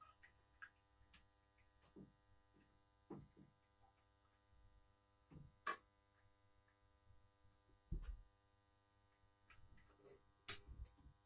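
Faint steady electrical hum with scattered light knocks and clicks of handled metal. The sharpest click comes about six seconds in, a low thud follows about two seconds later, and another sharp knock comes near the end.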